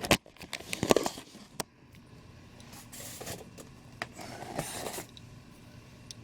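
A boxed statue's packaging being handled and opened: sharp clicks and knocks in the first second and a half, then rustling and scraping of the wrapping.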